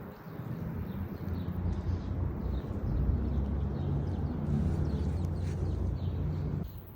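Outdoor background noise: a steady low rumble with faint bird chirps above it, cutting off sharply near the end.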